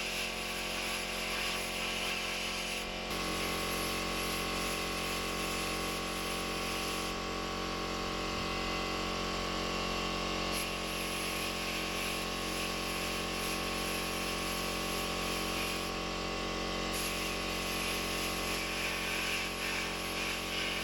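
A power tool motor running steadily, with a shift in its tone about three seconds in.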